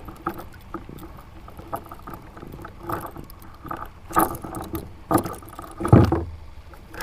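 Black drum drumming, a low pulsed croak about six seconds in, amid scattered knocks and clicks of the fish being handled on a plastic kayak.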